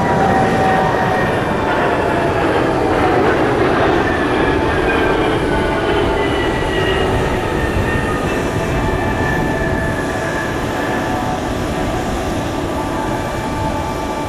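A KC-46A tanker's twin turbofan engines passing overhead, loud and steady, their whining tones slowly falling in pitch as the jet goes by.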